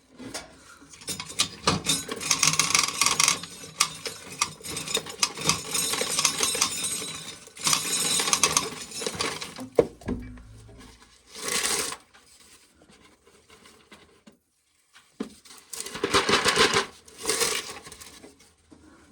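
Dried corn kernels rattling and pattering into a pail in bursts as ears are shelled.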